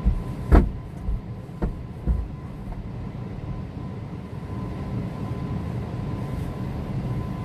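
Automatic tunnel car wash conveyor and machinery running, heard from inside the car as a steady low rumble with a faint steady whine. A few thumps come in the first couple of seconds, the loudest about half a second in.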